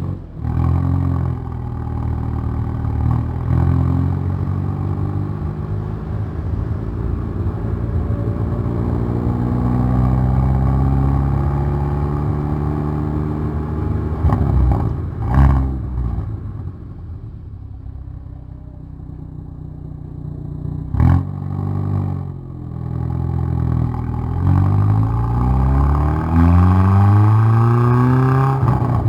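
Exhaust of a Hyundai i30N Performance's turbocharged 2.0-litre four-cylinder under hard acceleration on track, the pitch climbing through long pulls. The engine drops back when the driver lifts off, with a few sharp exhaust bangs, then climbs again in quick rising pulls near the end.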